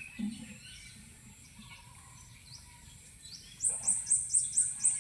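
Birds calling in a garden: faint high chirps, then from about three and a half seconds in a rapid series of about six loud, very high, falling notes, about four a second.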